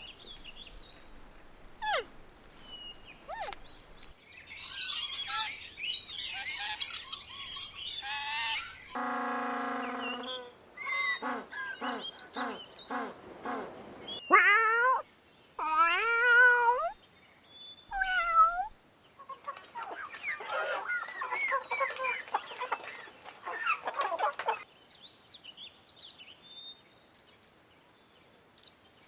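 A run of separate animal call recordings, one after another: mostly birds chirping and whistling, with a few louder pitched calls rising and falling in the middle.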